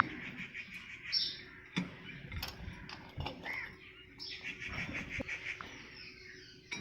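Small birds chirping and trilling in the background, with a few short light knocks scattered through.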